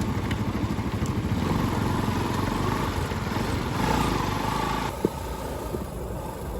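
Motorcycle engine running while being ridden, with a faint whine in the middle; the sound eases off a little about five seconds in.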